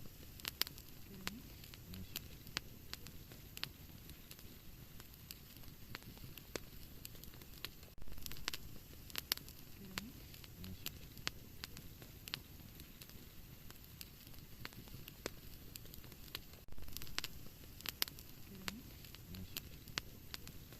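Wood fire crackling in a fireplace: irregular sharp pops and snaps over a soft steady hiss. The same stretch of crackling repeats about every nine seconds.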